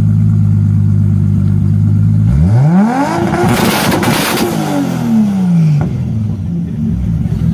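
Toyota Supra MK4's turbocharged 2JZ-GTE straight-six idling, then revved once: the pitch climbs quickly a couple of seconds in, a rush of noise comes near the top, and it falls back to idle.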